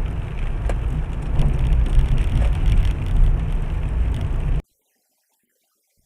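Loud, steady low rumble of a moving vehicle as picked up by a dashcam, with a few faint knocks. It cuts off suddenly, leaving silence for the last second and a half.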